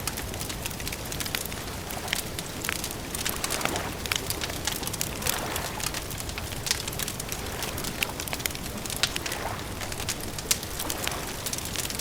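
Wood fire crackling, with many irregular sharp pops and snaps over a steady soft hiss.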